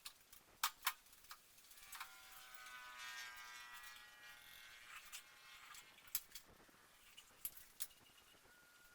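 A small electric motor whirring for about three seconds, a few seconds in. Scattered sharp clicks and knocks come before and after it.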